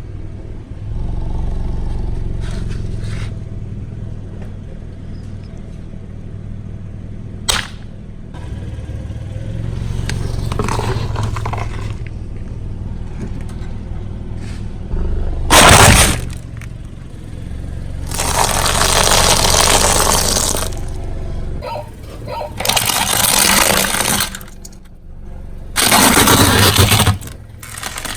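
A car's engine runs low while its tyre rolls over and crushes objects. There is a sharp click about seven seconds in, and a loud sudden burst about halfway through, the loudest moment. Three longer noisy stretches of crushing follow.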